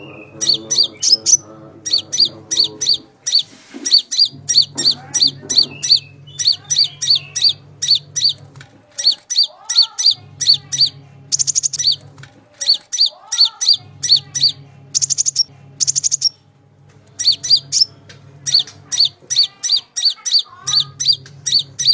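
Konin (kolibri ninja sunbird) song: rapid high-pitched chirps in quick runs of about six to eight notes, repeated with short gaps. A low hum comes and goes underneath.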